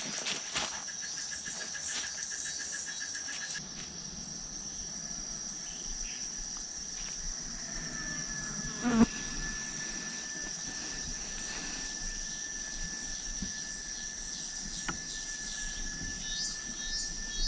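Insects calling: a steady high buzz throughout, with a lower pulsing trill that stops a few seconds in and a steady lower tone that takes over about eight seconds in. A single knock about nine seconds in.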